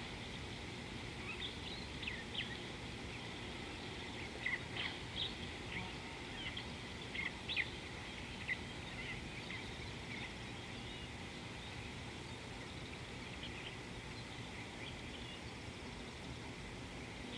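Wild birds calling with many short, sharp chirps, busiest in the first half and sparser later, over a steady low background noise.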